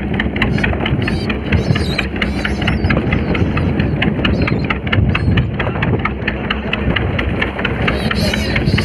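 Fishing boat's engine running steadily with a rapid regular knock. Over it, seabirds give high, warbling calls a few times: near the start, again about two seconds in, and near the end.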